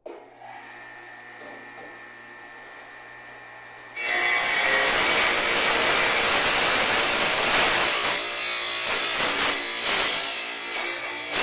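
A steady low hum for about four seconds, then a tile saw cutting fire brick starts suddenly, loud and harsh, and keeps cutting to the end.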